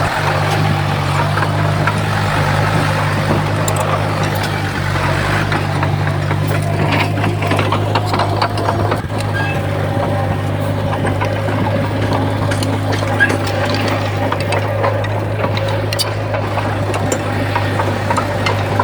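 Komatsu D51PX bulldozer's diesel engine running steadily, with scattered clicks and clatter.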